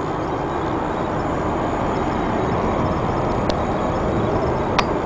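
Steady rushing noise inside an Airbus A380 cabin, with a couple of faint clicks about three and a half and five seconds in.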